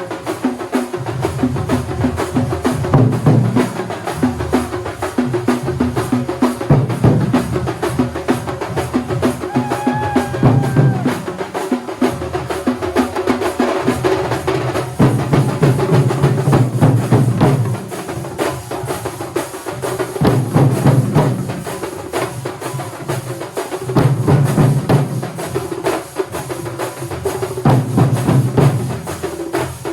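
Kerala thambolam percussion ensemble drumming: fast, dense strokes with heavy bass drum passages that come and go every few seconds.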